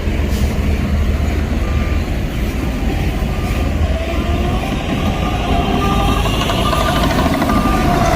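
Heavy diesel construction machine running steadily, with a reversing alarm sounding short beeps at an even pace, a little under two a second. About halfway through, a rising whine comes in over the engine.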